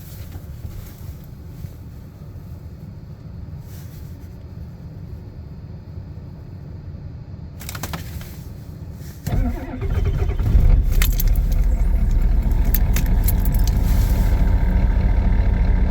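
Ford 6.9L IDI V8 diesel cold-starting at about minus five degrees without a block heater. A low steady rumble and a click come first; about nine seconds in the engine cranks briefly, catches and runs loud with diesel clatter.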